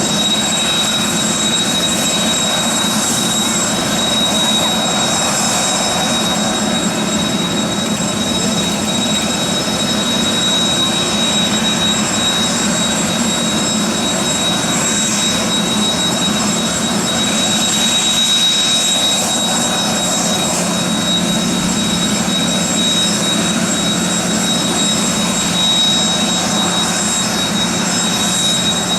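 Kawasaki T-4 trainer's twin F3 turbofan engines running steadily: a high, unwavering whine over a broad rush of jet noise.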